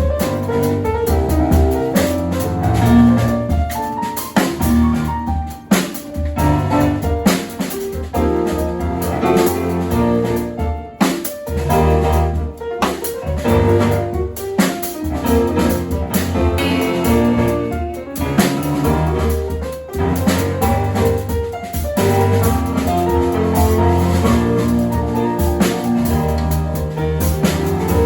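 Small jazz band playing live: piano and drum kit to the fore over a low bass line.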